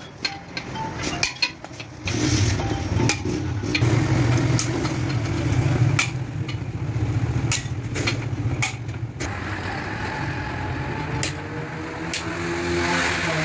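Sharp metallic clinks and taps of tools and parts, over a steady low engine hum that starts about two seconds in. Near the end an engine note rises and shifts in pitch.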